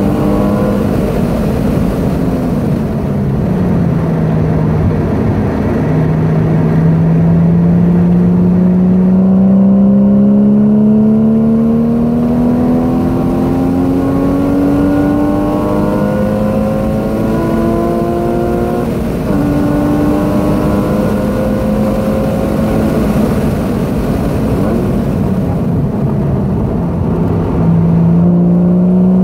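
Porsche 981 Boxster S's 3.4-litre flat-six, heard from inside the cabin while driven hard on track. The engine note falls over the first few seconds, then rises steadily through a long pull of about ten seconds, drops and holds fairly level, dips again and starts climbing near the end. Road and wind noise run underneath.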